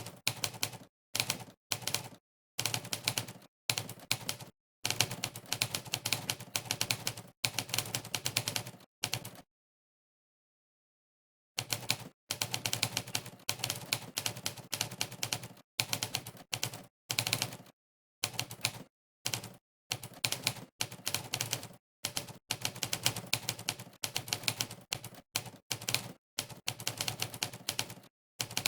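Typewriter key sound effect from a typing-test website, one sampled typewriter clack for every keystroke of fast typing, in rapid runs broken by brief gaps. The clatter stops for about two seconds a third of the way in, then picks up again.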